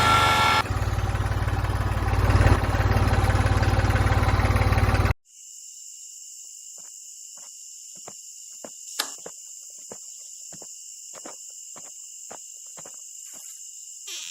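A small motor of a DIY mini tractor or pump model runs loudly with a fast buzzing rhythm, then cuts off suddenly about five seconds in. After that, a steady high insect-like chirring, like crickets, carries on with faint ticks about every half second.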